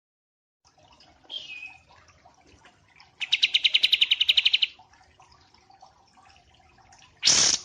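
Small songbird calling: a short falling whistled note, then a fast, even trill of about a dozen notes a second lasting about a second and a half. Near the end there is a short, loud, harsh burst of noise.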